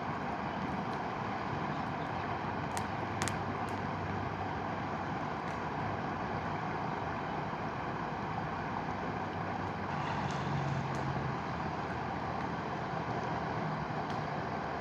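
Mountain river rushing steadily, with a few sharp crackles from a bonfire.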